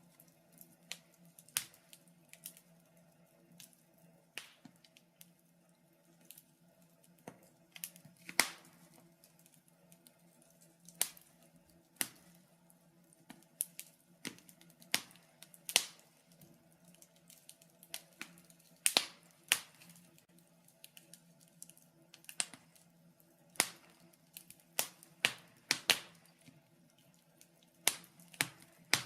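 Wood fire in a fireplace crackling, with irregular sharp pops and snaps. Some come in quick clusters and a few are much louder, over a faint steady low hum.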